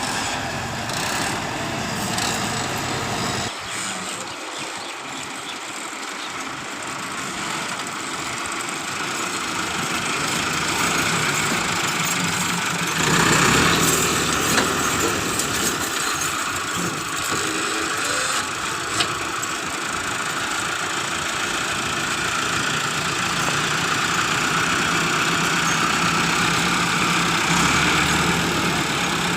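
Tractor engine running steadily. The sound changes abruptly about three and a half seconds in and grows louder from about thirteen seconds.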